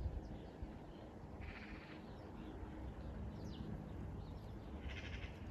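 Faint songbird twittering outdoors: a short trill about a second and a half in and another near the end, with a few thin chirps between, over a low rumble.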